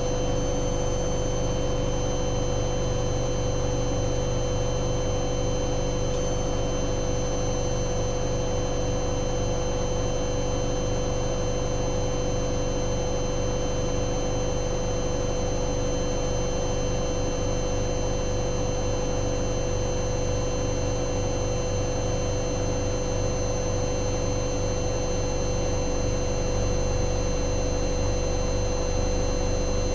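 Hoover Dynamic Next washing machine on a spin-only cycle, its drum spinning at a steady high speed: a steady motor whine over a low drum rumble.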